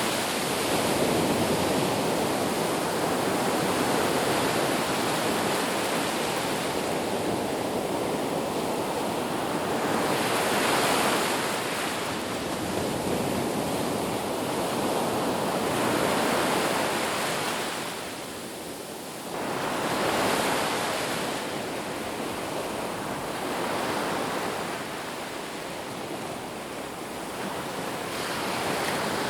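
Ocean surf: waves breaking and washing up the beach in a continuous rushing hiss that swells and eases every few seconds, with a short lull just past the middle before the next wave breaks.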